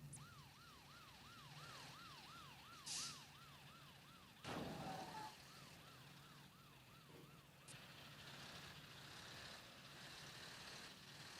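A siren yelping in rapid up-and-down swoops, about three a second, fading out about two-thirds of the way through, over the steady low drone of vehicle engines. A short hiss comes about three seconds in and a louder rushing burst about four and a half seconds in.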